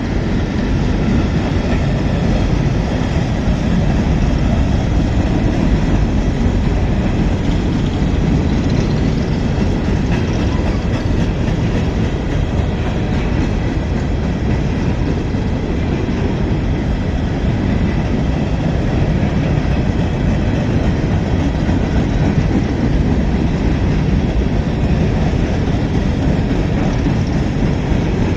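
A train rolling past: a steady, deep rumble of railcars on the track that holds at an even level throughout.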